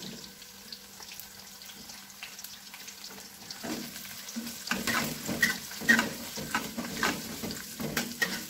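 Sliced shallots and garlic sizzling in hot oil in a wok. From about halfway through, a metal spatula scrapes against the pan in quick repeated stirring strokes, about two to three a second.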